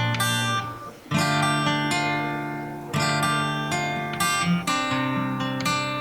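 Acoustic guitar playing an instrumental intro of ringing chords, with a short break about a second in before the chords start again.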